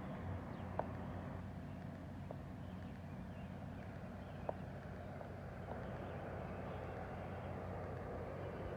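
Garden ambience after rain: a steady low hum and hiss, with a few single water drips ticking here and there.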